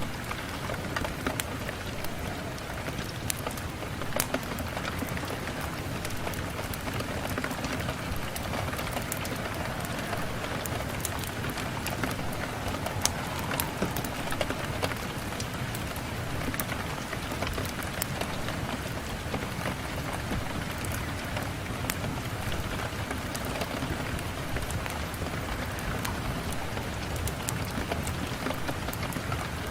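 Steady rain on a window, an even hiss with scattered sharp ticks throughout.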